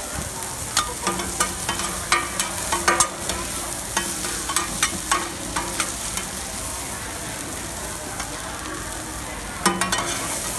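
Batter and oil sizzling on a hot street-stall griddle as a mussel pancake fries, a steady hiss. Metal spatula clicks and scrapes come in quick clusters, loudest in the first half and again near the end.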